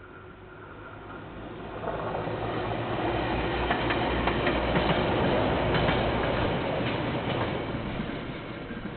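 KiwiRail train running past on the rails, heard through a security camera's microphone. It grows louder from about two seconds in, is loudest in the middle with a few sharp wheel clicks, and eases off near the end, over a low steady rumble.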